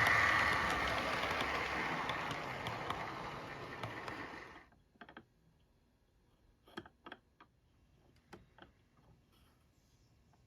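Model train car rolling along the track: a steady running clatter that fades away over about four seconds, then a few scattered clicks.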